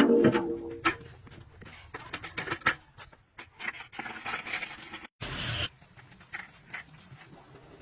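Irregular clicks, knocks and scrapes of tools working on metal truck axle parts, with a short burst of hiss about five seconds in.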